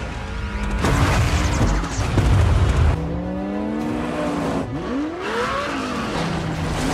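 Film soundtrack of car engines racing. A heavy low rumble comes first, then from about three seconds in several engine notes rise and fall in pitch as cars rev and pass, with a music score underneath.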